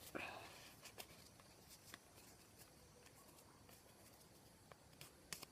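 Near silence, with a few faint scattered rustles and taps of a sheet of paper being folded and creased by hand.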